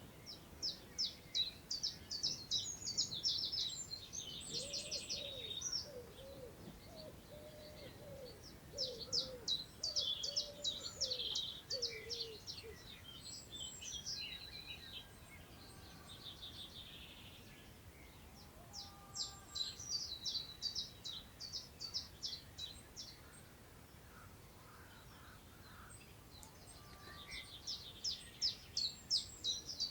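A songbird repeating a fast, high, trilling song phrase of about four seconds, four times, with a lower series of wavering notes in the middle. A soft steady hiss of wind through long grass lies underneath.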